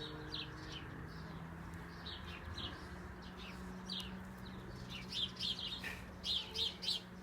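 Birds chirping in short, separate calls, scattered at first and coming in a quick run of several near the end, over a faint steady low hum.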